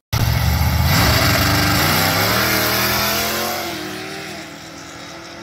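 Drag-racing car engine at full throttle, accelerating hard down the strip: the engine note climbs in pitch and fades as the car pulls away.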